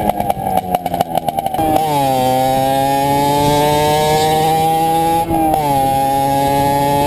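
Unsilenced exhaust of a CPI SM 50 supermoto's 50cc two-stroke engine, run with the rear muffler removed. It pops unevenly at first, then about a second and a half in it jumps to a loud, steady high-pitched drone that slowly climbs in pitch. About five seconds in there is a brief hitch, after which the pitch drops and then climbs again.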